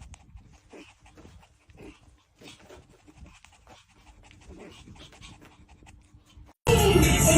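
A dog panting, faint quick breaths about three a second. Near the end, loud music cuts in abruptly.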